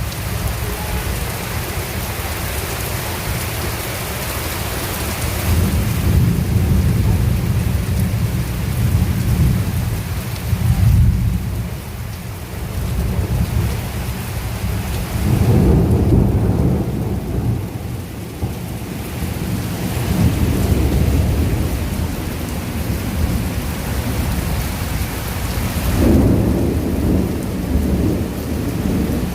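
Heavy rain falling steadily, with thunder rumbling in repeated low swells, the strongest about a third, half and nine-tenths of the way through.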